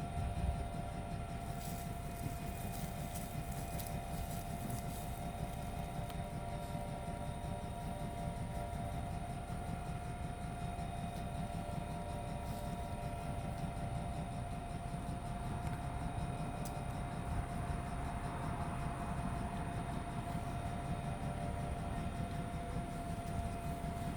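A dog gnawing on a bone, with faint scattered clicks, most of them in the first few seconds, over a steady mechanical hum with a thin high whine.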